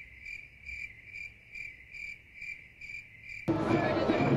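Crickets chirping steadily, a high chirp repeating a little over twice a second. About three and a half seconds in, the sound cuts abruptly to louder music with voices.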